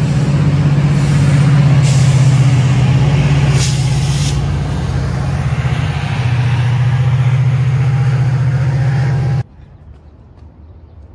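Metrolink commuter train passing with its diesel locomotive engine running as a loud steady hum over the rumble of the cars, with short hisses of air about two and four seconds in. The sound cuts off abruptly near the end, leaving faint outdoor ambience.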